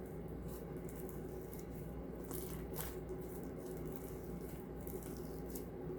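Slime being kneaded and stretched by hand as lotion and soap are worked in: faint sticky squelches and a few crackles over a steady low hum.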